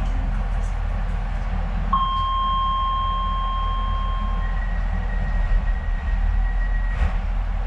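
Docklands Light Railway train's door-closing warning: a steady tone for about two and a half seconds, then a higher tone for about as long, over the low hum of the train. A short knock comes near the end as the doors shut.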